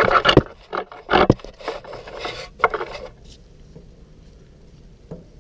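A wrench scraping and clinking on a switch in the engine of a 1974 BMW R90S as it is worked loose. The sound is a few sharp knocks and rasping strokes, and it stops about three seconds in.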